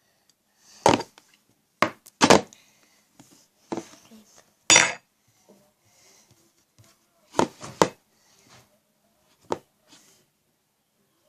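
A spoon knocking and scraping against a bowl while stirring slime: about eight separate clinks and short scrapes at irregular intervals.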